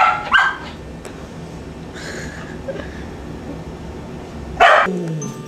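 Animal cries from a puppy and house cats fighting: two sharp cries at the start, then a louder cry about four and a half seconds in that falls in pitch, over a steady low hum.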